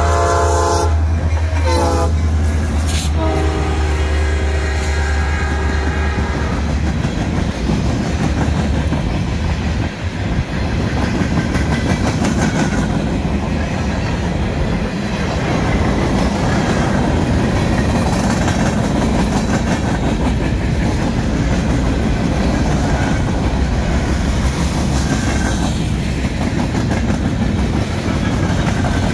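Diesel-electric freight locomotives, a GP38-2 and an SD60, passing close by with a deep engine drone and sounding the air horn in several blasts, the last and longest ending about six seconds in. Empty center-beam flat cars then roll past with steady wheel noise and clickety-clack over the rail joints.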